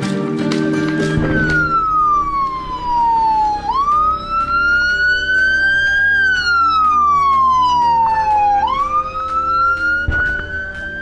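A siren wailing in slow cycles: its pitch falls steadily, jumps back up, then climbs slowly to a peak about every five seconds, over background music.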